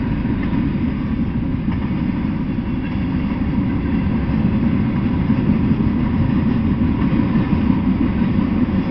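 Freight train of tank cars, covered hoppers and boxcars rolling past close by: a steady low rumble of steel wheels on rail.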